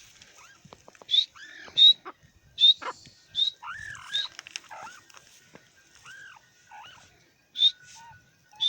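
Francolin (teetar) calling: a series of short, sharp, high-pitched notes, mostly in the first half and again near the end, with lower arching notes mixed in between.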